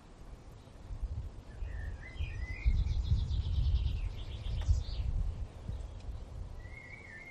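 Birds chirping, with a fast trill in the middle, over a low rumble that swells through the middle few seconds and then eases off.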